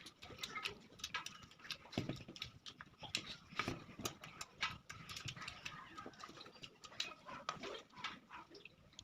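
Close-miked eating sounds: irregular chewing, lip smacks and wet mouth clicks of someone eating rice with spicy ghugni curry.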